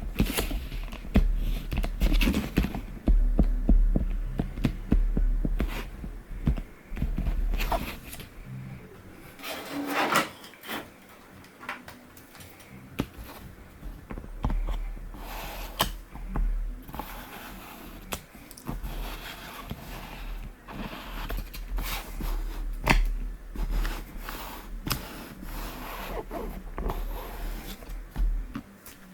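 3D-printed plastic stand parts being handled and fitted together: irregular clicks, knocks and scrapes.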